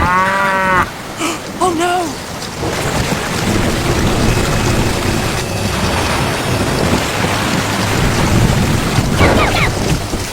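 Loud, steady rushing noise like heavy rain with rumbling. Short high-pitched, voice-like calls come in the first two seconds, and a few brief gliding tones come near the end.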